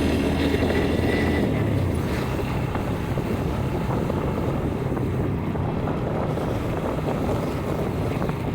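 Steady wind roar on the microphone of a moving motorcycle, with the bike's engine running underneath at an even pace.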